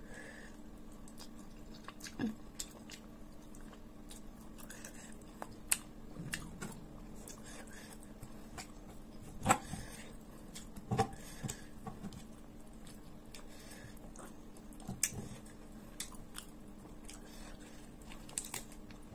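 A person eating with her fingers close to the microphone: chewing and mouth sounds with scattered short, sharp clicks, over a faint steady hum.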